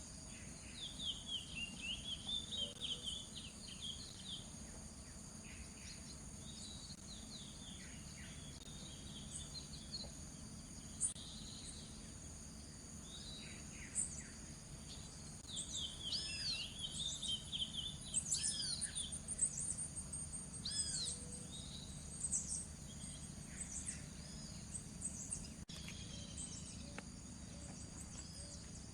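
Coleiro-do-norte seedeater singing in quick, twittering phrases of rising and falling chirps, busiest near the start and again in the middle, over a steady high drone of insects.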